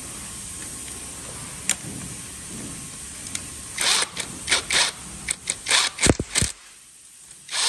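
Short scraping and clicking handling noises start about four seconds in, with two sharp knocks around six seconds, as the valve cover is fitted back onto the cylinder head of the 60cc engine.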